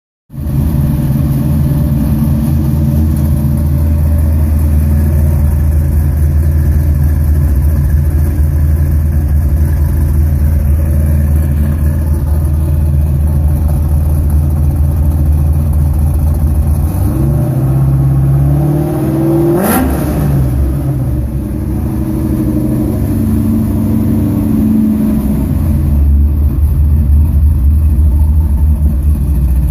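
Car engine idling through a side-exit exhaust with tips, steady and deep, blipped up once about two-thirds of the way through, the pitch rising to a peak and falling straight back to idle.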